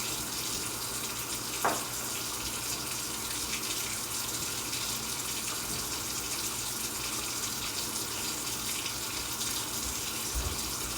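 Water running steadily from a faucet into a sink during hand washing. About two seconds in there is one brief, sharp squeak.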